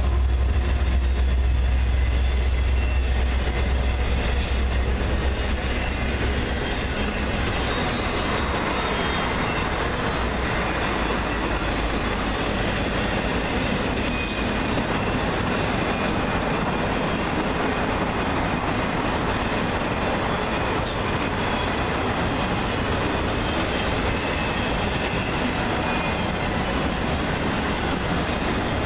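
A freight train rolling past on the rails. A heavy deep rumble for the first six seconds or so drops away into the steady rolling and rattling of the cars, with faint wheel squeal.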